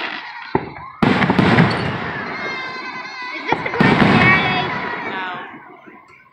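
Aerial fireworks bursting: four sudden bangs, the last two close together, each followed by a long fading rumble.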